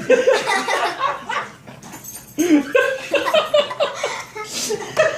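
Laughter and wordless vocal reactions.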